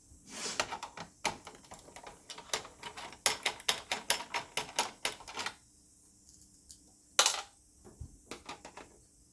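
Rapid clicking and clattering of a projector's parts being handled and pried during disassembly: a dense run of clicks for about five seconds, a single louder knock about seven seconds in, then a few more clicks near the end.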